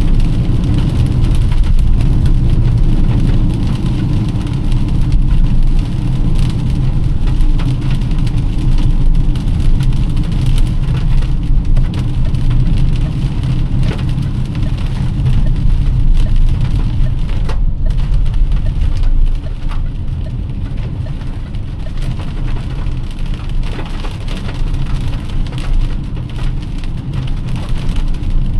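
Heavy rain pattering on a moving car over a steady low rumble of tyres and engine on a wet road, easing slightly about two-thirds of the way through.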